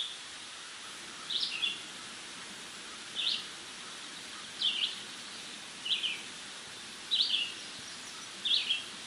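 A bird repeating one short, falling two-part chirp about seven times, evenly spaced roughly every second and a half, over a steady hiss of outdoor ambience.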